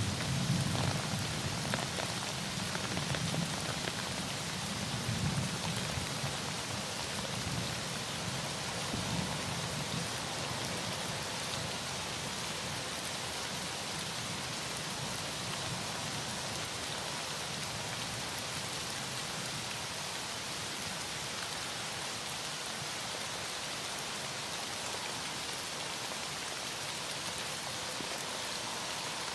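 Heavy rain falling steadily, with the low rumble of thunder dying away over the first several seconds.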